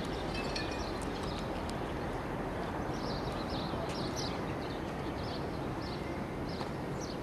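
Slow-moving train of flat wagons carrying trams, a steady low rumble, with short high chirps repeating about two to three times a second over it.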